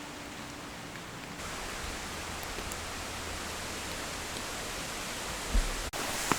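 Steady rain falling, an even hiss that grows a little louder about a second and a half in, with a single low thump near the end.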